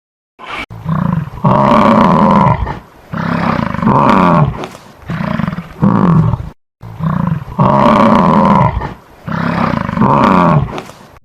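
An animal calling loudly in a run of long and short calls, the same run heard twice over.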